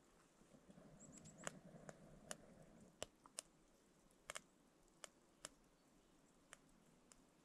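Faint, sparse sharp clicks and pops, about a dozen at irregular intervals, over near silence.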